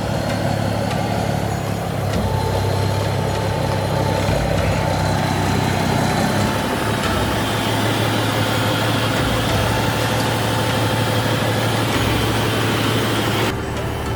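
Truck engine running steadily with a deep hum. The higher hiss drops off near the end.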